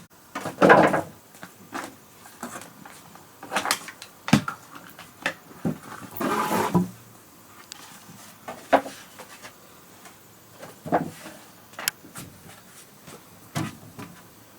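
Irregular knocks and thuds of wood being handled and worked, with two longer scraping sounds, one about half a second in and one around six seconds in.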